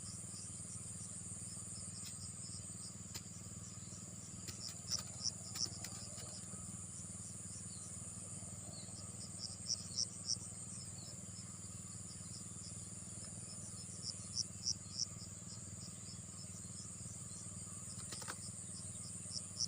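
Insects droning steadily and high, with a short chirping call that repeats in quick groups of three or four about every five seconds. A low steady hum runs underneath.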